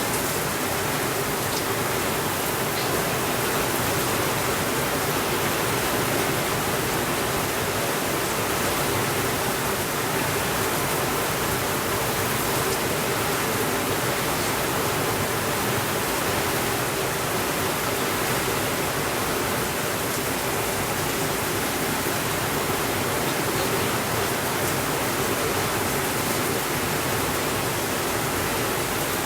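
Steady, even rainfall with a constant hiss and no thunder.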